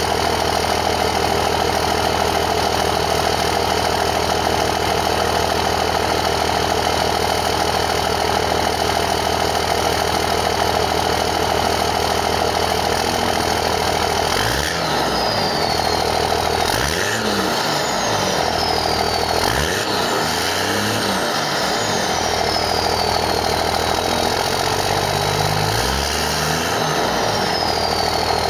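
2001 Dodge Cummins 5.9 24-valve turbo diesel, straight-piped through a 4-inch exhaust with no muffler, idling steadily. About halfway through, the throttle is blipped about four times, each rev rising and falling. After each blip a high whistle falls away as the turbo spools down.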